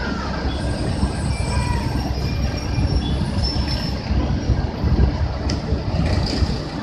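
Large city bus running past at close range, a heavy low engine rumble with faint high-pitched brake or wheel squeals over it.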